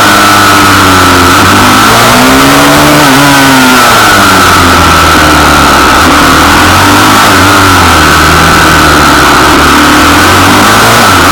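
Pit bike engine revving up and down, loud and distorted, with more than one engine note overlapping.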